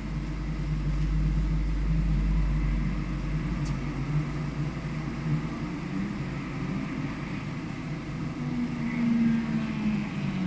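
Vehicle engine running at speed on a race circuit, heard from an onboard camera, with wind rumble on the microphone that eases about four seconds in.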